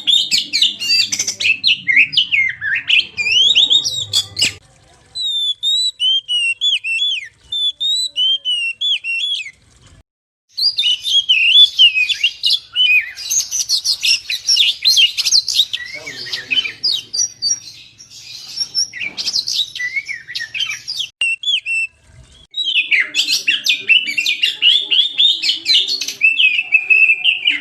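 Oriental magpie-robin (kacer) singing: fast, varied phrases of whistles and chattering notes, loud and nearly continuous, with a few short breaks.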